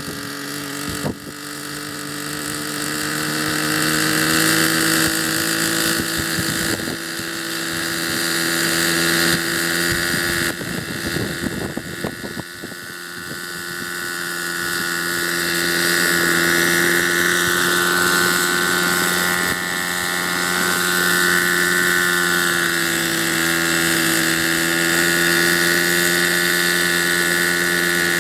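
Glow-engine RC helicopter (Hirobo) running in flight. The engine note climbs over the first few seconds, eases off briefly about ten to twelve seconds in, then holds high and steady with a slight waver.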